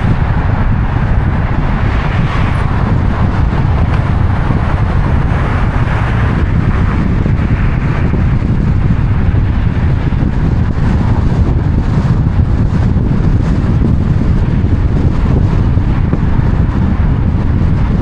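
Steady low rumble and hiss of wind buffeting the microphone, unbroken throughout.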